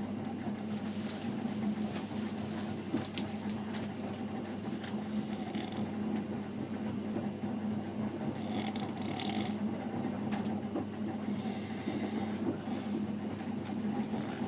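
Steady running noise of a passenger train heard from inside the carriage: a constant hum with a rattly texture, with a few brief hissy sounds about a second, eight and twelve seconds in.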